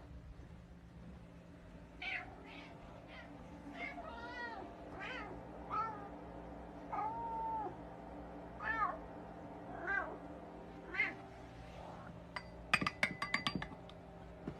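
A cat meowing over and over: about ten short, arching meows, roughly one a second. Near the end comes a quick run of sharp clicks.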